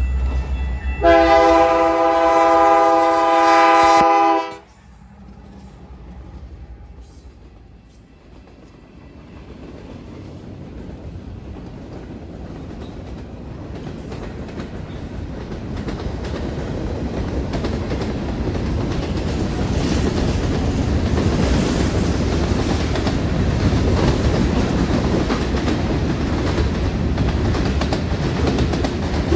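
A locomotive air horn sounds one long blast of about three seconds and cuts off sharply. Then a train approaches, its wheels on the rails building steadily louder.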